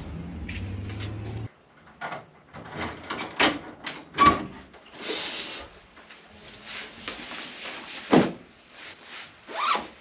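A steady low rumble that cuts off suddenly about a second and a half in, then scattered knocks, thumps and rustling of a person moving about a room: a door, footsteps and a padded jacket being handled.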